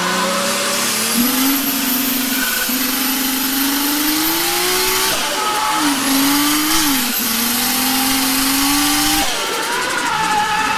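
Toyota JZX Tourer's 1JZ straight-six running hard while drifting, heard from inside the cabin: the revs climb steadily, drop briefly about five seconds in, climb again and fall off near the end, over a constant hiss of tyre noise from the sliding tyres.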